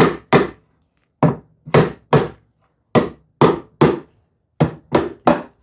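Sharp knocks of a mallet striking a wooden workpiece: about eleven blows in quick pairs and triples, each ringing briefly.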